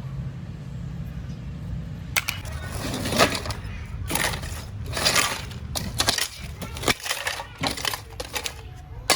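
Concrete being broken and chipped away from a phone: a run of irregular cracking and crunching noises that starts about two seconds in.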